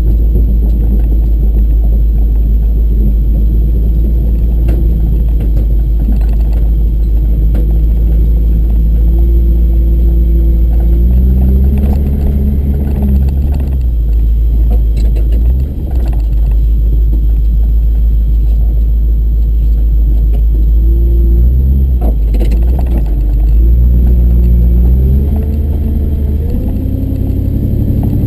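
Tow truck's engine running under load with a heavy low rumble, revving up twice, about a third of the way in and again near the end, with a few light knocks and rattles.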